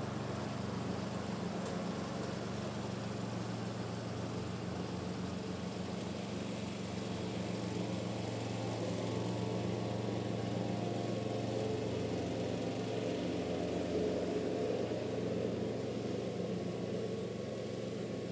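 Lawn mower engine running steadily while mowing grass.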